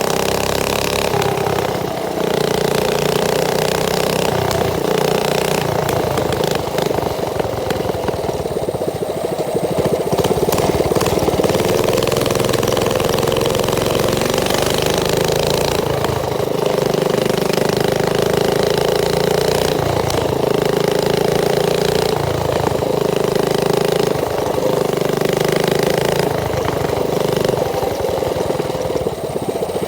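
Mini bike's small engine running steadily, its pitch wavering up and down a little.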